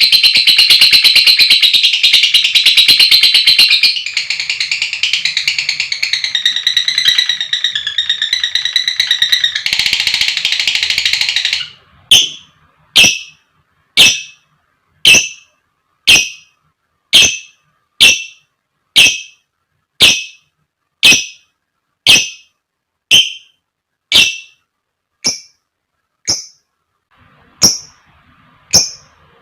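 Lovebird giving a long, continuous, rapid high-pitched chattering trill, the 'ngekek panjang' that fanciers play to set other lovebirds calling. About twelve seconds in it switches to short single calls, about one a second.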